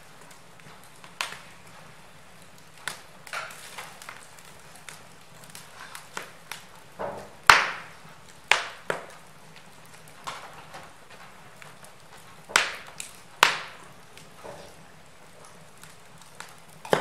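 Wood fire crackling in a fireplace: irregular snaps and pops of burning logs, with a few louder cracks in the middle, over a faint steady background.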